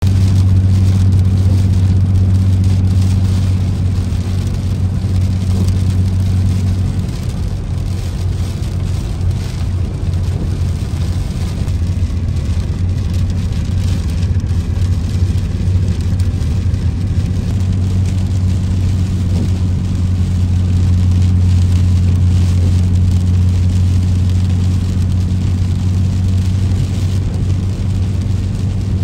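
Rain falling over a car's steady low engine and road drone. The drone weakens for several seconds in the middle and then comes back.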